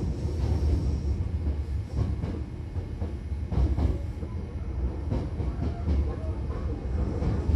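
A Hankyu Kyoto Line train heard from inside the car while running: a steady low rumble, with scattered clacks of the wheels over the track.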